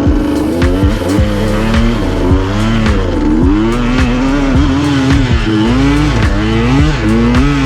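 Dirt bike engine revving up and down over and over as it is ridden along a trail, with scattered sharp knocks.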